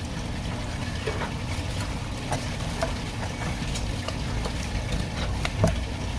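A steady low machine-like hum with scattered light knocks and clicks, the loudest knock near the end.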